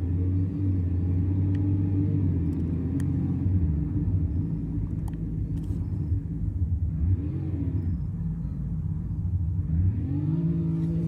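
Truck engine running with a low, steady note. About seven seconds in it is blipped once, rising and falling, and near the end it is raised to a higher steady speed.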